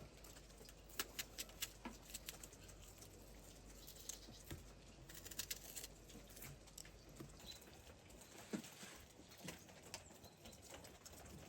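Faint, scattered clicks and taps at an irregular pace over a quiet background.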